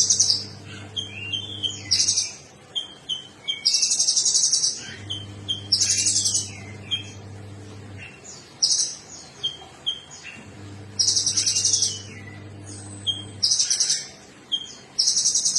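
A songbird singing: loud, high, buzzy rattling trills about a second long every few seconds, with short chirping notes in between. A fainter low hum comes and goes behind the song.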